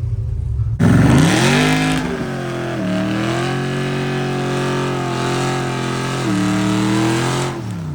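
Truck engine opened to full throttle for a drag strip pass, pitch climbing hard and changing step by step as it pulls through the gears, then falling away as the throttle is lifted near the end; it is running without boost.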